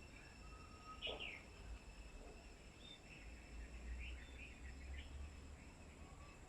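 Faint, short bird chirps, one about a second in and a few more around four to five seconds, over a steady high-pitched drone and a low rumble.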